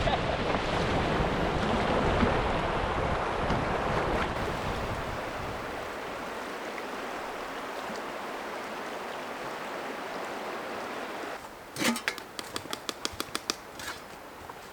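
Steady rush of river water, loudest at first and easing off over several seconds. About eleven seconds in it cuts to a quieter background with a quick run of sharp clicks and taps.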